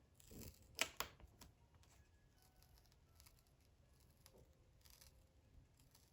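Near silence with small handling noises: a short rustle and two sharp clicks about a second in, then a few faint ticks.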